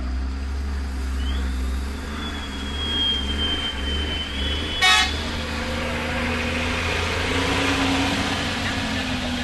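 A heavy vehicle's engine running low and steady, with a thin high whistle-like tone lasting about three seconds and a short, loud horn toot about five seconds in; a hiss of noise builds in the second half.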